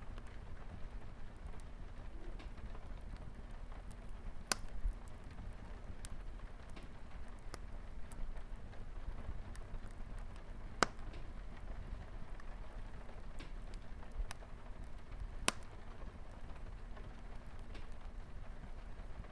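Light rain on a window, a steady pattering hiss, mixed with a crackling wood fire that gives scattered small crackles. Three sharper pops stand out, about 4, 11 and 15 seconds in.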